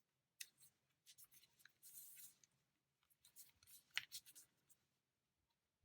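Faint crinkles and soft crackles of a sheet of origami paper being folded and unfolded, a few separate rustles with the sharpest about four seconds in.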